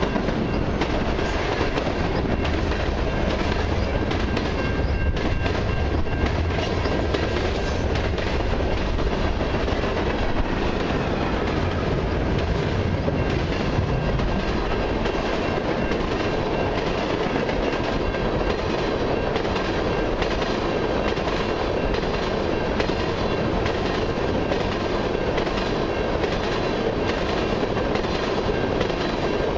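Freight train cars (autoracks, a covered hopper and tank cars) rolling steadily past at close range, their wheels clacking over the rails.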